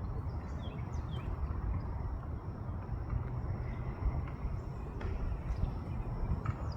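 Outdoor ambience: a steady low rumble with a few quick, falling bird chirps about half a second to a second in and again near the end.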